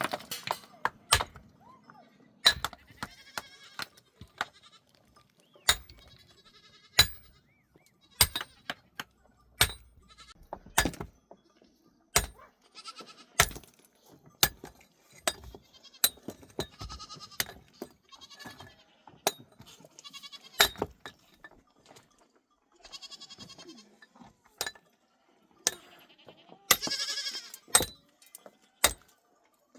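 Farm animals bleating several times, with many sharp knocks and clicks between the calls.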